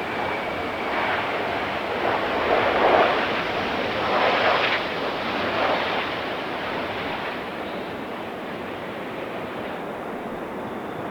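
Jet engine noise from a landing Boeing 737-300's CFM56 engines, with a high whine that slides down and fades about a second in. Strong wind buffets the microphone in several swells over the first six seconds before the noise settles to a steadier level.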